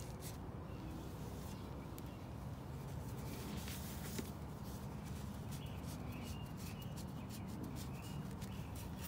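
Quiet background with a steady low hum, a few faint bird chirps around the middle, and a single small click about four seconds in.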